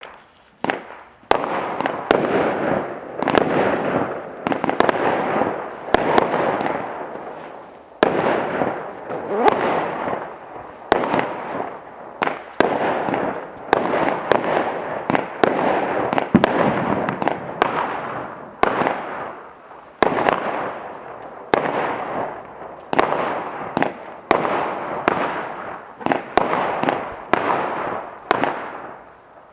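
A 30-shot firework cake (Celtic Fireworks Golden Glory) firing its shots in sequence: a sharp bang roughly once a second, each followed by a noisy trail that fades away.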